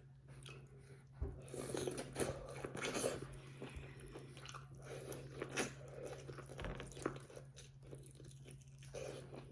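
Close-miked eating: bites and chewing of seafood-boil food, mouth noises in two spells, the first a bit over a second in and the second around the middle, with a steady low hum underneath.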